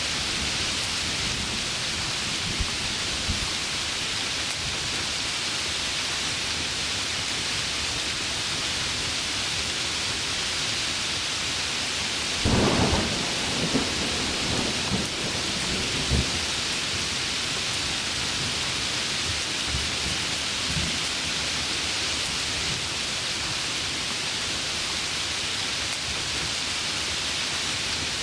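Heavy rain falling in a steady hiss, with a thunderclap about halfway through: a sharp crack followed by a few seconds of low rumbling and thumps.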